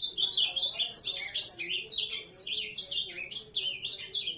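Ultramarine grosbeak (azulão) singing one long warbling phrase of quick notes that slide up and down.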